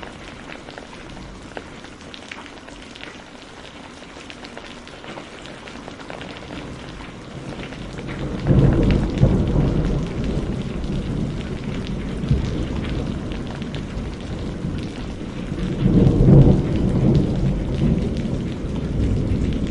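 Steady rain with a few small crackles from burning firewood; about eight seconds in, a loud low thunder rumble starts suddenly and rolls on, swelling again near the end.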